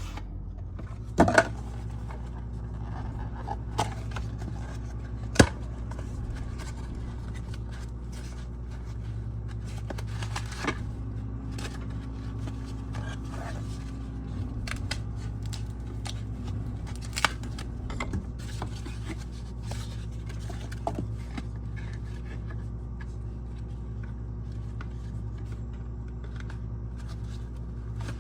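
Scattered sharp clicks and taps with light scraping, over a steady low hum; the loudest clicks come about a second in, at about five seconds and at about seventeen seconds.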